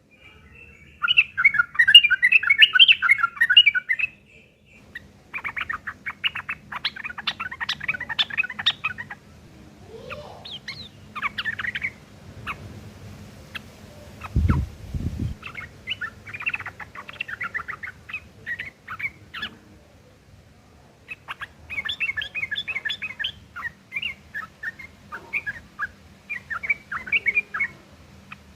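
Yellow-vented bulbuls (trucukan) giving harsh, rapid chattering in repeated bursts of several seconds each, the rough calls of birds fighting. A low thump about halfway through.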